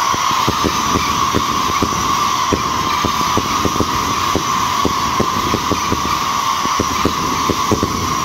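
Racoon 1.3G 'Straight Whistling to Thunder' fireworks cake firing continuously. A steady chorus of overlapping whistles from the rising tails is broken by a rapid string of bangs, a few each second, as the shots report.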